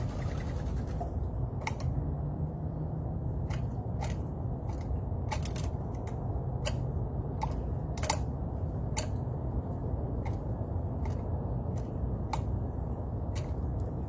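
A series of sharp, separate clicks, about one to two a second and uneven in spacing, over a steady low rumble.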